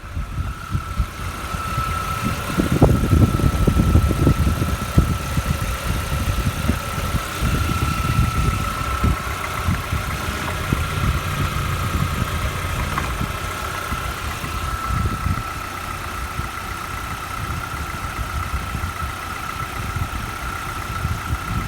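VW Passat B5's 1.6-litre AHL four-cylinder petrol engine running, louder for the first few seconds and then settling to a steady idle, with a steady high whine alongside.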